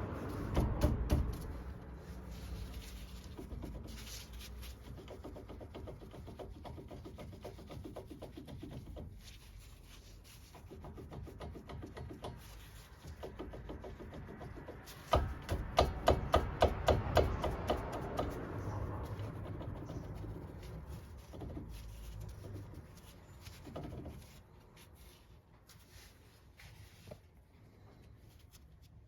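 Scattered clicks and knocks of hands-on mechanical work, with a fast, even run of sharp clicks, about seven a second, lasting a few seconds about halfway through.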